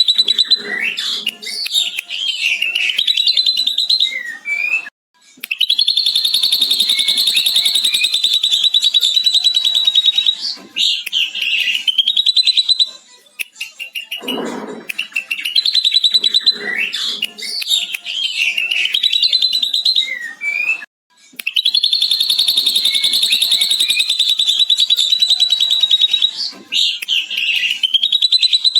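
Ashy drongo singing lovebird-style ngekek: long, rapid, high chattering held for several seconds at a time, broken by shorter whistled phrases. The same passage comes round twice, about sixteen seconds apart.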